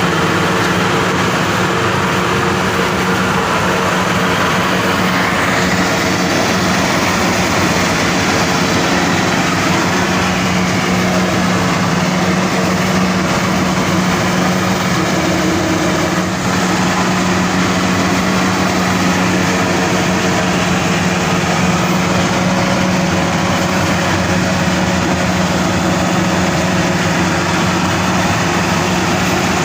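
Maxxi Bimo 102 SS combine harvester running steadily: a constant engine note under a dense mechanical rush from the working machinery.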